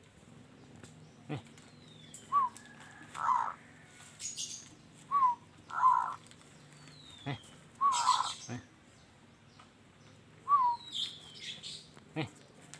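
Zebra dove (perkutut) cooing in short, separate coos, about seven of them spaced irregularly, a voice the uploader calls rough and loud. Faint high falling whistles from other small birds and a few sharp knocks come in between.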